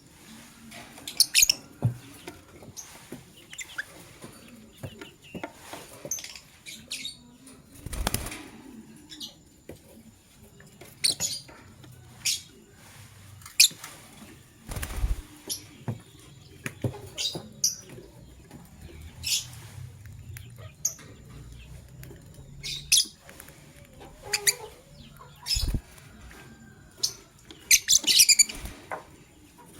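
Lovebirds giving short, sharp chirps scattered irregularly, with wing flapping and a few dull thumps, the loudest at about 8, 15 and 26 seconds in.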